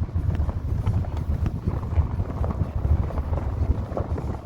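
Car driving, heard from inside: an uneven low rumble of the road and engine with wind buffeting the microphone and scattered small knocks and rattles.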